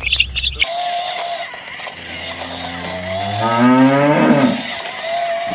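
A cow mooing once, one long call that rises in pitch, after a moment of high chirping at the start.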